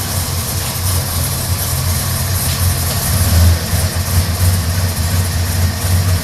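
Big-block Chevrolet V8 of about 520 cubic inches, built to over 700 hp, idling in a pickup truck. Its deep exhaust note pulses unevenly.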